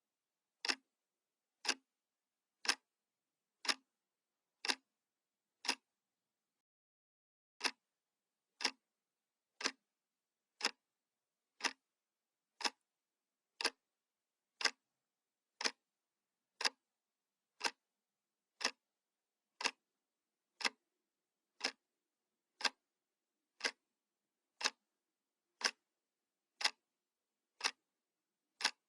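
Analog clock ticking, one crisp tick each second, with a single tick missing about six seconds in.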